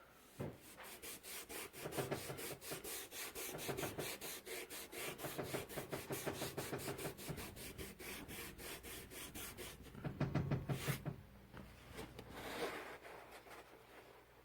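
Cloth with cleaning paste scrubbing a textured plastic fridge handle in quick, even back-and-forth strokes, several a second, with a louder stretch of rubbing about two-thirds of the way through.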